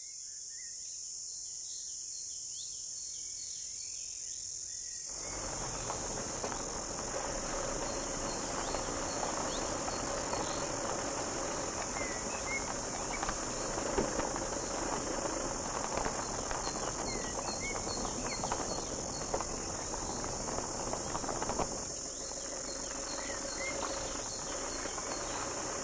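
Steady high-pitched insect drone, with a 4x4 driving along a sandy bush track from about five seconds in until near the end, and a few short bird chirps.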